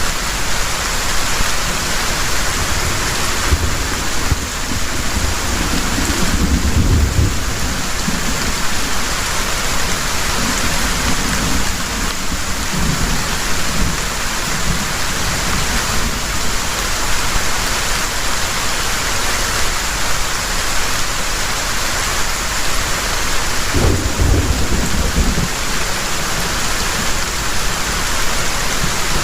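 Heavy rain falling steadily, with thunder rumbling low twice: about six seconds in and again near the end.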